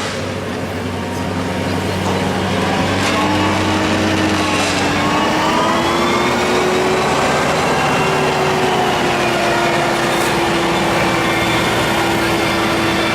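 An engine running steadily, getting louder over the first two seconds and then holding, its pitch wavering slightly up and down.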